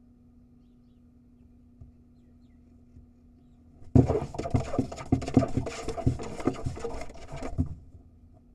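A barn owl scuffling and scratching on the wooden floor of its nest box, a dense run of knocks and scrapes starting about four seconds in and stopping abruptly after about three and a half seconds.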